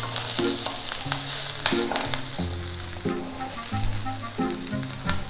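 Sliced onions and green chillies sizzling in hot oil in a kadhai, stirred with a spatula that scrapes and clicks against the pan a few times.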